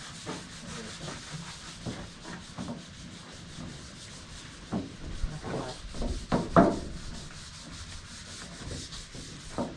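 Hand sanding with 120-grit sandpaper: quick back-and-forth rubbing strokes over a surface, with a few louder, harder scrapes a little past the middle.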